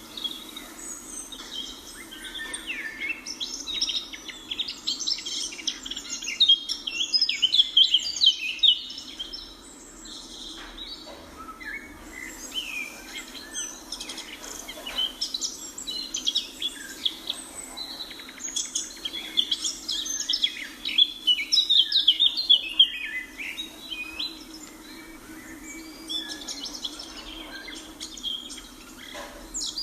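A chorus of small birds chirping and twittering, many overlapping calls at once, busiest in two stretches, with a faint steady hum underneath.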